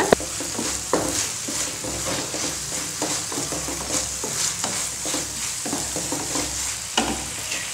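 Onion, capsicum and chilli-sauce mixture sizzling in a frying pan as it is stirred, with scattered sharp clicks of the stirring utensil against the pan.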